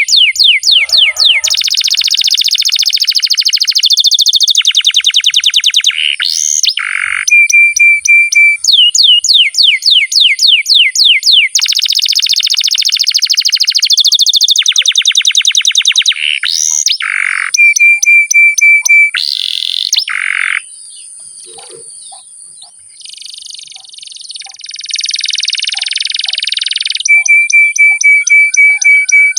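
Canary singing a long, continuous song of rapid trills and rolls, switching phrase every couple of seconds, with a held pure whistled note after some of the rolls. The song drops quieter for a few seconds about two-thirds of the way through, then picks up again.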